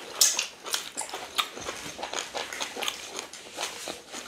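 Close-miked chewing and lip-smacking of people eating fufu and ogbono soup with cow meat by hand: irregular wet smacks and clicks.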